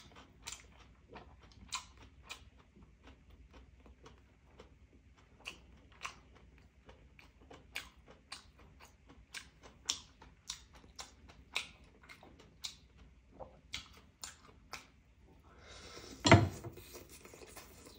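Someone eating roasted duck: scattered small crunches and mouth clicks, one to three a second, with a loud thump about sixteen seconds in.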